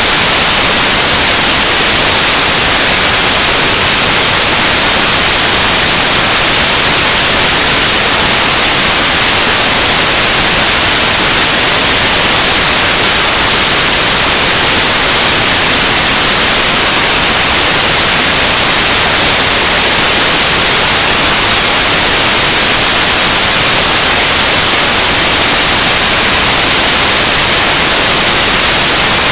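Noise music: a loud, unchanging wall of static hiss, brightest in the treble, with no rhythm or pitch.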